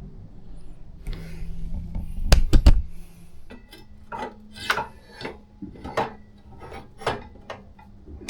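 Metal hardware clinking and knocking: a few heavier knocks about two and a half seconds in, then light metallic clinks about twice a second, as exhaust mounting parts are handled and fitted.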